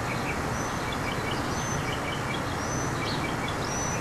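Small birds chirping and giving several short high whistles over a steady background hiss.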